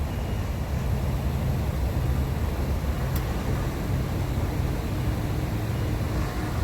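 Steady low rumble of a road vehicle's engine and tyres, with a faint engine hum joining about four seconds in.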